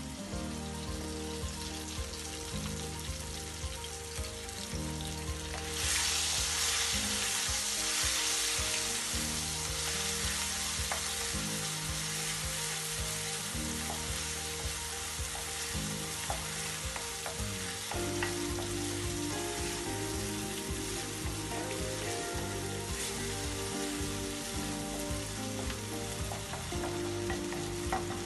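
Red chili sambal sizzling as it fries in oil in a nonstick wok, being briefly fried to dry it out, with the scrape and tap of a wooden spatula stirring it. The sizzle grows louder about six seconds in and stays steady after that.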